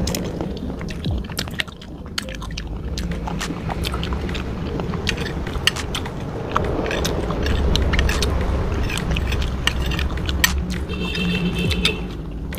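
Close-miked wet chewing and sucking on chicken feet and noodles, full of sharp mouth clicks, with the spoon and fork tapping and scraping in the glass bowl.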